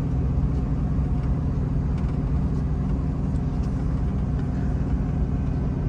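Scania truck's diesel engine and drivetrain running with a steady drone, heard inside the cab on a downhill run. The automatic retarder and engine brake are holding the speed at about 40 km/h.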